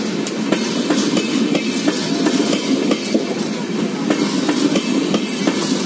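LHB passenger coaches rolling past at close range, a steady rumble of wheels on rail with frequent clicks and clatter as the wheels cross rail joints.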